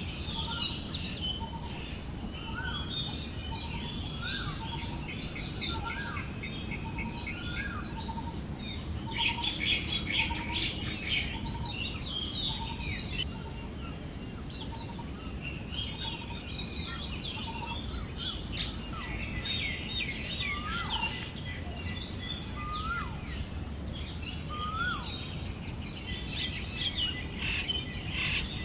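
Forest birds chirping and calling, one bird repeating a short low note about every half second through the first half. There is a busy flurry of chirps about nine seconds in and again near the end, over a steady high insect-like hiss and a low breeze rumble.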